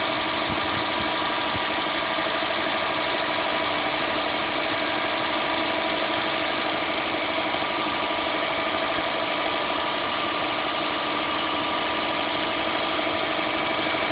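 Saab 9-2X Aero's turbocharged flat-four engine idling steadily while it warms up after a cold start.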